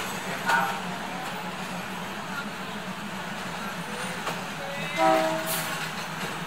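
Diesel railcar train rolling slowly along the platform as it pulls in, its engines humming steadily. A short, loud toot comes about five seconds in.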